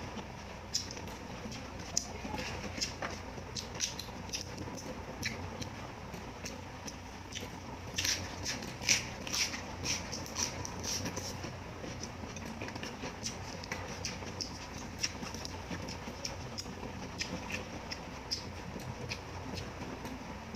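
Close-up eating sounds of a person chewing boiled pork intestine: a scattered run of sharp mouth clicks and smacks, busiest and loudest about eight to eleven seconds in.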